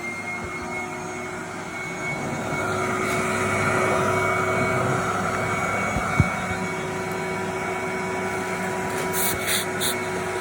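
Vacuum cleaner motor running steadily with a high whine and a rush of air that grows louder for a few seconds midway, with a single sharp click about six seconds in.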